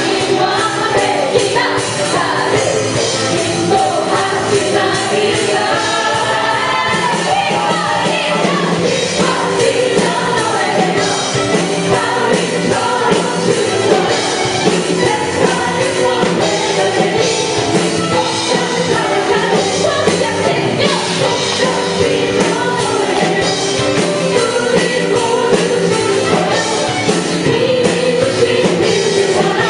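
Live worship band playing an upbeat praise song while a group of voices sings along, loud and continuous.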